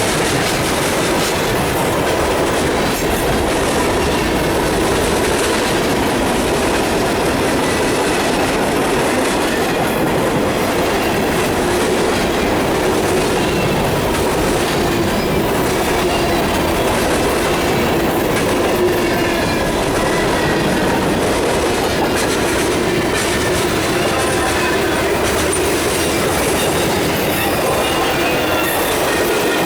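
Freight cars of a mixed freight train rolling past at steady speed: a continuous loud rumble of steel wheels on the rails with clickety-clack over the joints and a faint squeal from the wheels.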